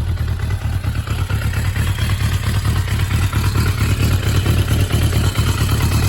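Suzuki GSX400 Impulse (GK79A) motorcycle engine running steadily after being started, with an even low beat.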